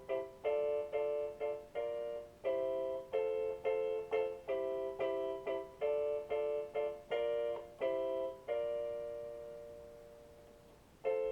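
Shoulder keyboard playing an electric-piano-like part of short repeated chords in a steady rhythm. About two-thirds of the way through one chord is held and fades away, and the chords come back in just before the end.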